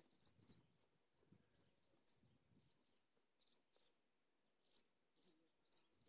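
Faint, high chirps of small birds, coming in short clusters about once a second.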